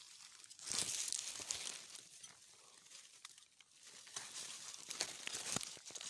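Dry rice stalks rustling and crackling as they are handled during the harvest, with a few sharp snaps. The sound comes in two stretches: about a second in, and again from about four seconds in.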